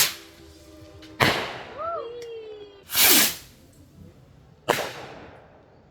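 Four loud whooshing bursts of noise, about one and a half seconds apart, each dying away quickly, with a brief rising-and-falling tone between the first two.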